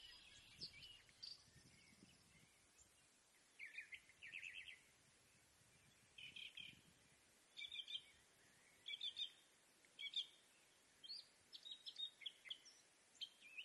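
Faint birdsong: short high chirps and trills in separate phrases about a second apart, over a quiet hiss.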